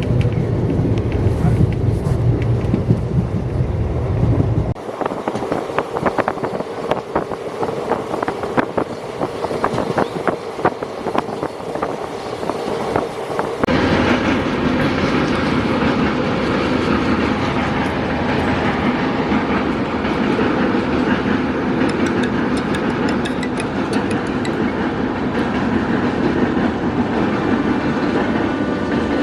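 Moving passenger train running on the track: wheels clattering over the rails and the coach rattling. The sound changes abruptly twice, from a heavy low rumble to close clicking and rattling about five seconds in, then to a broad rushing noise about fourteen seconds in.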